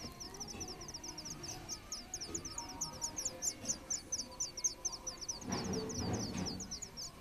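Nestling birds calling for food with a rapid, unbroken string of short, high cheeps, about seven a second. A brief low rustle comes near the end.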